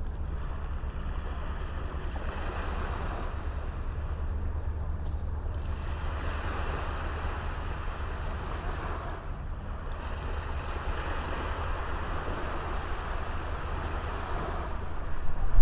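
Small waves washing onto a beach, the surf swelling and fading every few seconds, over a low rumble of wind on the microphone.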